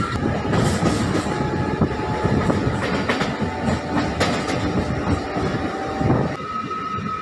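MEMU electric passenger train running along the track: wheels rumbling and clattering on the rails, with scattered clicks. The rumble eases about six seconds in.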